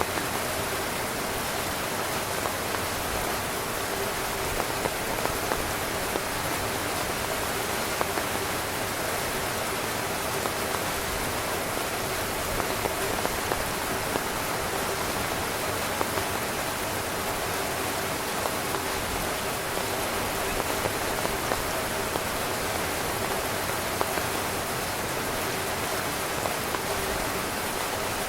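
Steady heavy rain drumming on a tent, a dense hiss with frequent individual drops pattering on the fabric.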